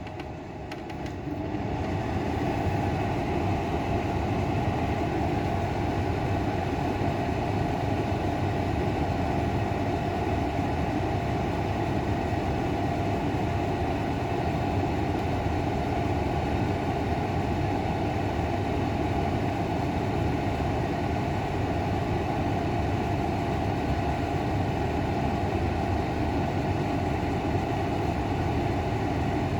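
Ringgrip 250 mm centrifugal window exhaust fan running on its high speed setting, building up to speed over the first couple of seconds and then running steadily.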